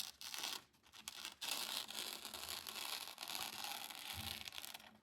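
Freshly sharpened Buck 692 hunting knife slicing through thin phone book paper, a scratchy, papery hiss: a couple of short strokes, then a longer steady cut from about a second and a half in. The edge is passing its paper-cutting test.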